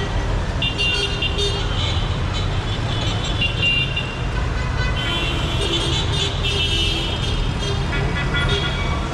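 Busy city street traffic: a steady rumble of car and motorbike engines with repeated horn honks, in clusters about a second in and again from about five to seven seconds.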